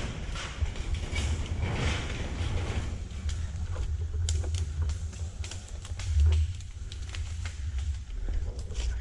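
Low rumble of wind buffeting the microphone with rustling, then from about three seconds in a scatter of small sharp clicks and knocks.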